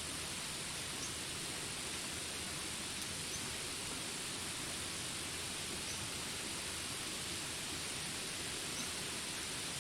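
Steady rain falling as an even hiss in a jungle ambience, with faint short high chirps every second or two.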